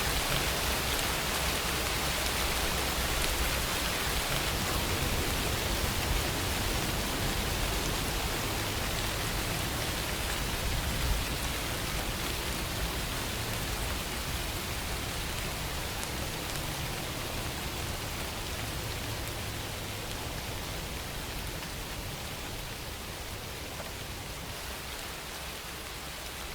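Steady rain falling, an even hiss with no distinct drops or thunder, easing slightly in loudness toward the end.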